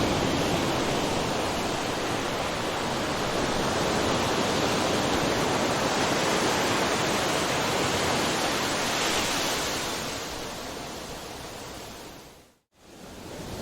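Ocean surf rushing steadily, then fading out to a moment of silence near the end before rising again.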